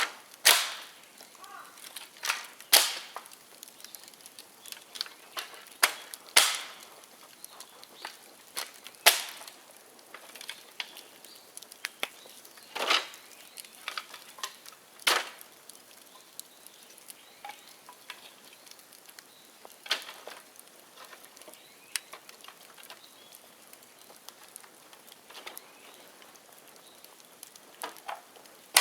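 Bonfire of dead bamboo burning: soft crackling punctuated by irregular sharp pops as bamboo sections burst in the heat, several loud ones in the first half and fewer, quieter ones later.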